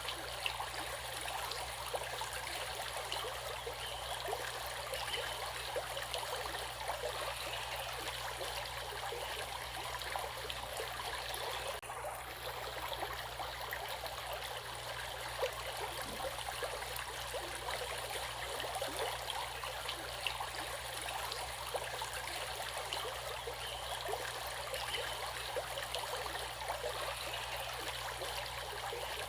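Running water of a stream flowing over stones: a steady rush full of small splashes, dipping briefly about twelve seconds in.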